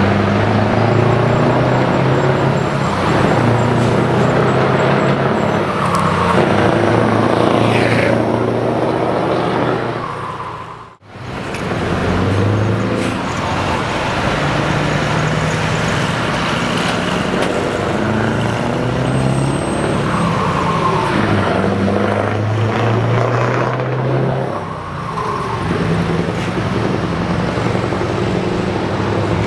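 Scania V8 truck engine with open exhaust pipes, running loud as the truck drives, its revs rising and falling. The sound drops out briefly about eleven seconds in, then the engine is heard again.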